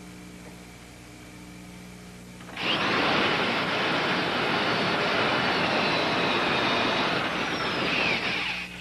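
Electric drill boring holes in wood for a canoe's end ribs. It starts abruptly about two and a half seconds in, runs for about six seconds with its motor whine wavering under load, and then stops.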